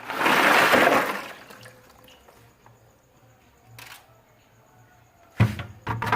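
A short rush of water lasting about a second, then a few clattering knocks near the end.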